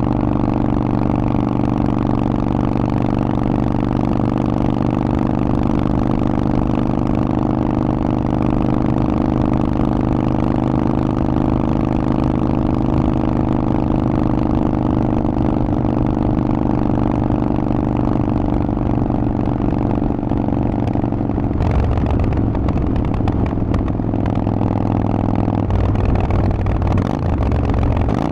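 Harley-Davidson Forty-Eight's V-twin engine through a Vance & Hines exhaust, running at a steady engine speed. About three-quarters of the way through, the note changes and then steps lower twice near the end.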